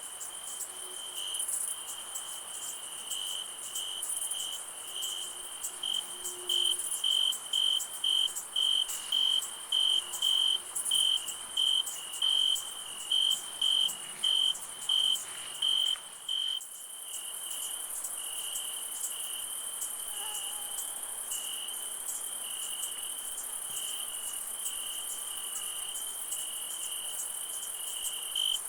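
Night insect chorus: a loud, regular chirp, about two a second, over a steady high buzz of other insects. A little past halfway the chirping fades back and the high buzz grows louder.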